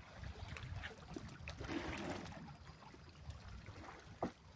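Faint water trickling and lapping over a low rumble, with a few light clicks and one short high blip just after four seconds in.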